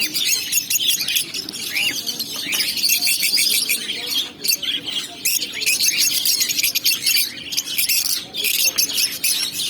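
A flock of parrots chattering and squawking together, a dense, unbroken mix of many overlapping shrill calls.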